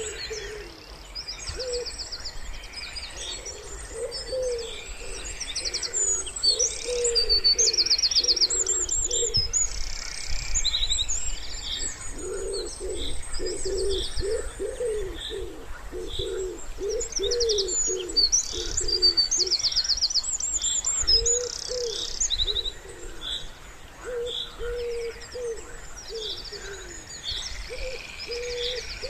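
Common wood pigeon cooing in repeated low phrases, with small songbirds singing rapid high trills and chirps over it.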